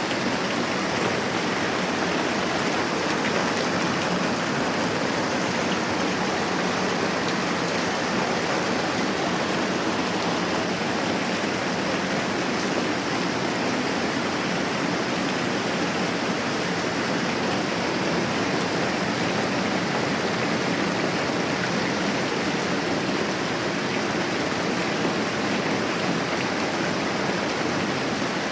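Moderate rain falling steadily: an even, unbroken hiss.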